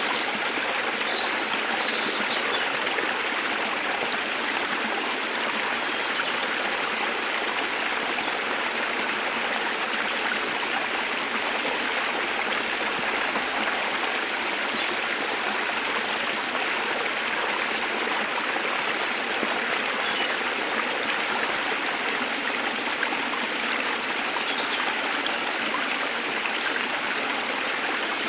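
Waterfall, with water rushing steadily, and a few faint, brief high bird chirps now and then.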